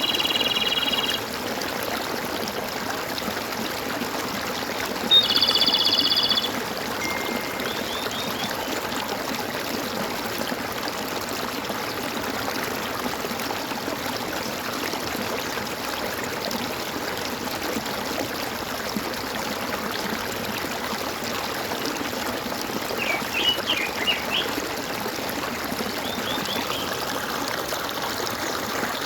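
Flowing stream water making a steady rushing, gurgling sound, with birds calling over it: a short buzzy trill at the start, a louder one about five seconds in, then a few brief chirping phrases.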